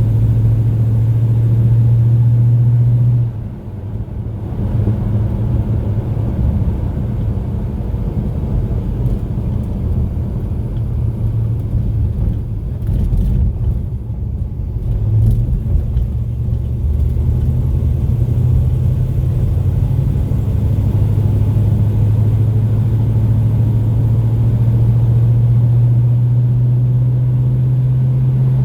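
Crate 350 small-block V8 of a 1948 Chevrolet Fleetmaster street rod running, a steady low drone. It drops off about three seconds in, wavers through the middle and settles back to a steady note near the end.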